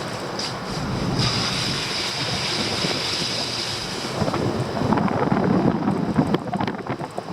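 Wind buffeting the microphone over a steady rushing hiss, the buffeting growing stronger and gustier about four seconds in.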